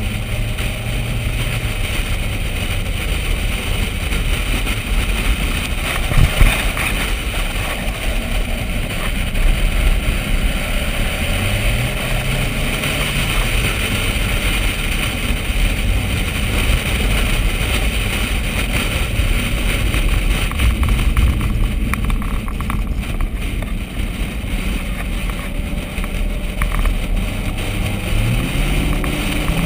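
Chevrolet Corvette V8 engine running on a race track at a steady parade pace under a constant rush of wind and road noise. Its pitch rises twice as the car accelerates, once about halfway through and again near the end. A single sharp knock comes about six seconds in.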